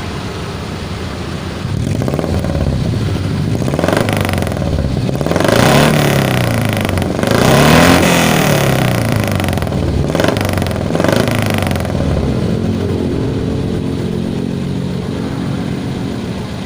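Carbureted Suzuki Futura van engine revved up and down several times through a newly fitted 4-3-1 header and aftermarket HKS exhaust, with the two biggest revs near the middle and short blips after them. It then settles back to a steady idle.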